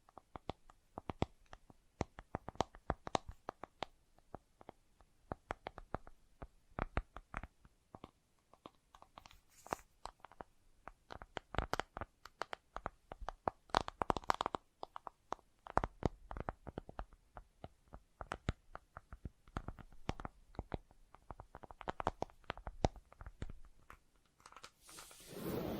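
ASMR tapping on objects: many quick, irregular taps in flurries, some louder than others, with a brief louder rustling sound near the end.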